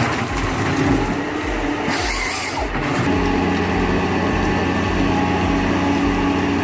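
Heavy machine's engine running, with hissing and rattling at first, then settling into a steady hum about three seconds in.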